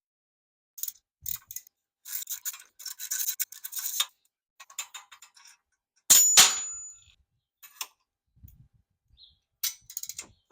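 Metal hand tools working on the scooter's exhaust fittings: bursts of scraping and clicking, then one loud metallic clink about six seconds in that rings briefly, and a few more clicks near the end.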